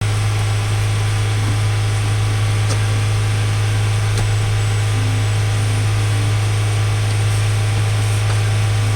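Toyota Camry 2.2 L four-cylinder engine idling, a steady low hum that starts and stops abruptly.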